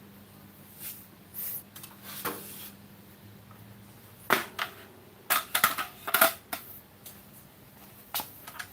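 Stools being handled and set back down: a series of sharp knocks and clatters, most of them bunched together in the middle.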